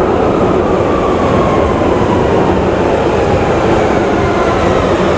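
Train running, a loud steady rumble with a faint whine that falls slowly in pitch.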